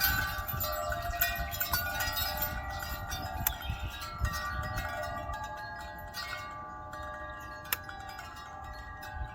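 Wind chimes stirred by a breeze, several tubes struck again and again and ringing on in overlapping tones. The strikes come thick at first and thin out toward the end.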